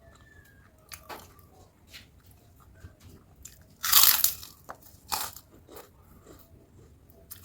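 Close-up eating sounds: crunchy bites and chewing of crisp food, with one long, loud crunch about four seconds in and another a second later.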